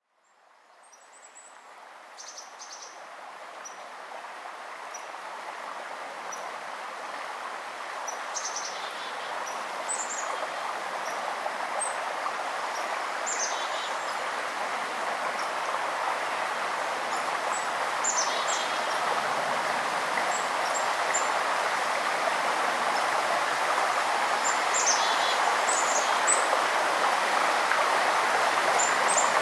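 A river's steady rushing water, fading in from silence and growing louder throughout, with brief high bird chirps scattered over it every few seconds.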